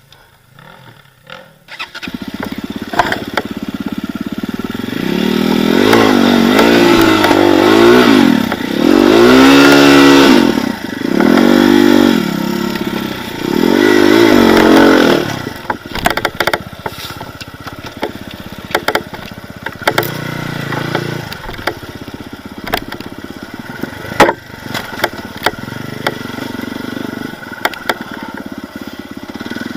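Off-road motorcycle engine cutting in about two seconds in and revving hard in several rising and falling bursts as it tries to climb a loose, leafy slope, then dropping to a lower, steadier run with scattered clatter and knocks.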